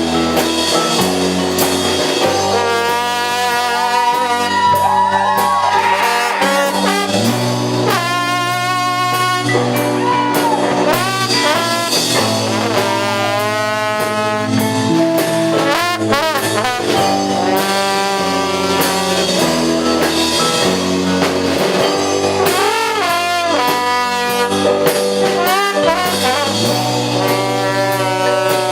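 Live band playing an instrumental passage, a brass horn soloing with long bending notes over the band's steady chords and drums.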